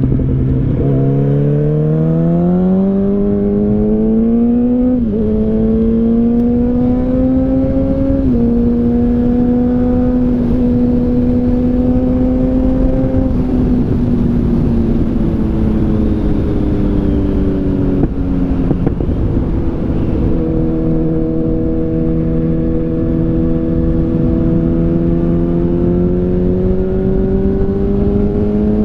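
A 2013 Yamaha FZ8's inline-four engine running through an SC Project oval carbon exhaust while riding. It revs up for about five seconds with quick upshifts about five and eight seconds in, holds a steady pitch, then eases off about halfway and runs at lower revs before building again near the end. A steady rush of noise runs under the engine throughout.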